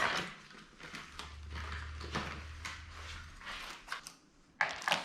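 Rustling and light knocks of hands handling packaging and computer parts, with a louder clatter near the end.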